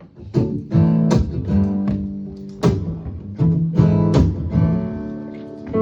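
Guitar playing the instrumental intro of a song: chords struck in a loose rhythm, each ringing out and fading before the next.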